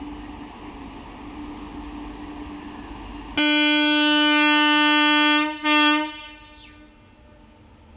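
Locomotive air horn sounding one long blast of about two seconds and then a short toot, over the low rumble of a train.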